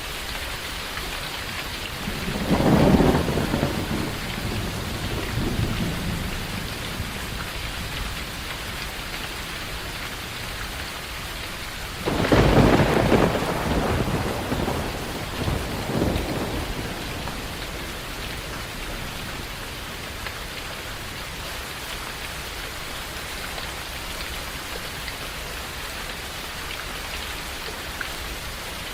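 Steady rain falling, with two thunderclaps: a rumble building about two seconds in and fading over a few seconds, then a sharper crack near the middle that rolls on for several seconds before dying back into the rain.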